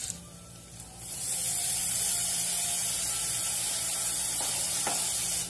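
Chopped vegetables dropped into hot oil with frying onion and garlic, setting off a steady hissing sizzle from about a second in.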